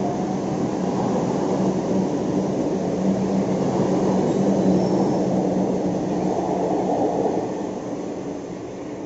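Kolkata Metro train running on the rails: a steady rumble with a constant hum, growing quieter from about seven and a half seconds in.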